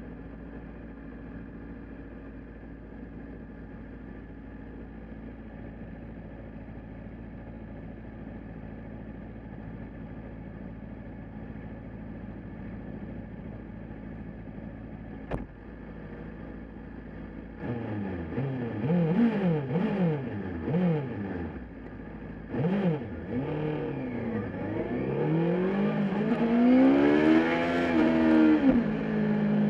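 Engines in a rolling-start race between a Honda CBR600RR sportbike and a muscle car. They first run at a steady cruise. From about two-thirds in they go to full throttle, the pitch climbing and dropping with each upshift, and it ends in a steady hum.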